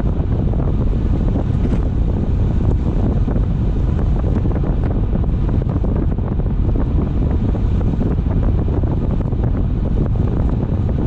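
Steady road and wind noise of a car driving at speed, a low rumble with wind buffeting the microphone.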